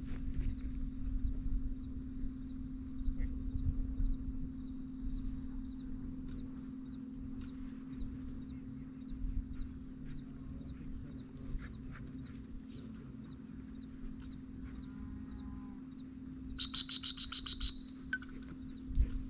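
Insects buzzing steadily in a field. About 17 seconds in, a loud trilled whistle blast of rapid pulses lasting about a second: a retriever-training whistle calling the dog.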